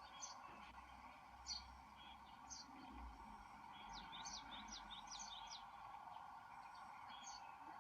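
Faint, short, high-pitched chirps from small birds, about one a second, with a quick run of several falling chirp notes near the middle, over a steady background hiss.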